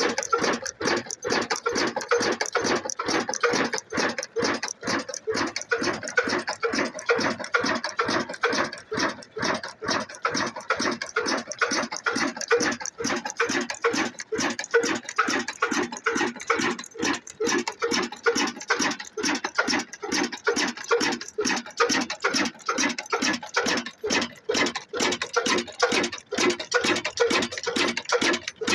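Single-cylinder 'black engine' diesel running steadily while driving a flour mill, with an even exhaust beat of about four to five strokes a second.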